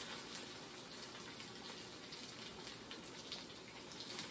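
Ham and potato cakes frying in corn oil in a pan: a faint, steady sizzle with a few small crackles.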